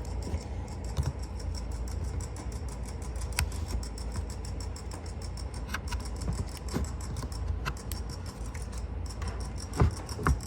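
Scattered light clicks and taps of a plastic reptile-rack drawer being worked open by hand, over a steady low rumble.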